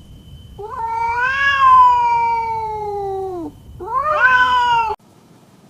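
A cat meowing twice: one long, drawn-out meow that slowly falls in pitch, then a shorter one that rises and cuts off suddenly.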